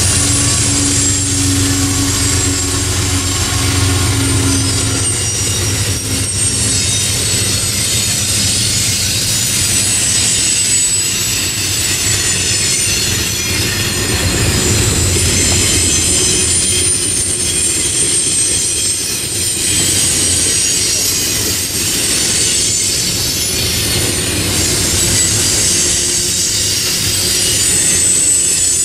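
Freight train passing close by: the diesel locomotives' engines drone for the first few seconds, then double-stack intermodal well cars roll past with steady wheel-on-rail rumble and high-pitched wheel squeal that comes and goes.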